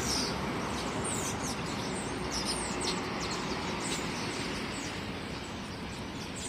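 Small birds giving many short, high, falling chirps over steady background noise.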